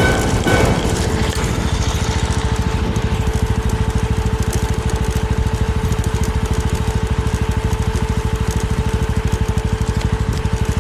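Small Suzuki 250 cc motorcycle engine running steadily under way, with rapid, even exhaust pulses and a steady whine above them.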